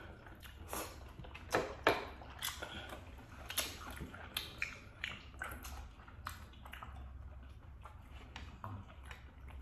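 Mukbang eating sounds: chewing and mouth smacks with irregular short clicks, the loudest a pair just under two seconds in.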